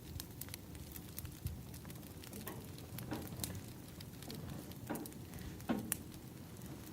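Wood fire crackling, with scattered sharp pops over a low rumble of flames and a few short falling whistles from the burning logs; the loudest pop comes near the end.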